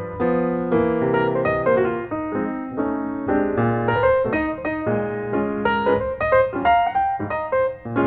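Background piano music: a steady run of single notes and chords with no break.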